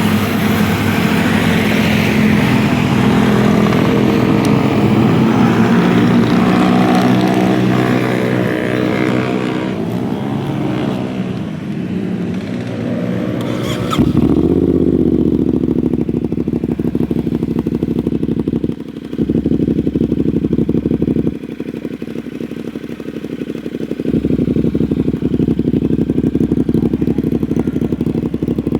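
CFMoto 450SR parallel-twin motorcycle engine running through a full Austin Racing exhaust with a catalytic dB killer in the canister. The pitch slides down a little past the middle of the first half. About halfway through, the sound switches abruptly to a deeper, steadier exhaust note.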